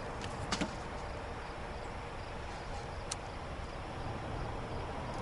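Steady outdoor background noise with a faint hum, broken by a few short sharp clicks about half a second in and one more around three seconds in.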